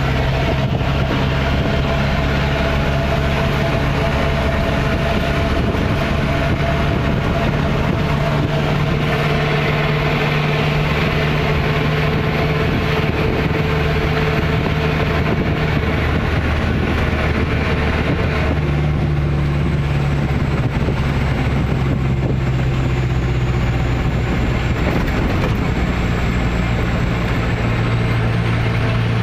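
Truck engine fitted with a racing exhaust running steadily: a loud, low, even exhaust drone whose pitch shifts slightly a couple of times.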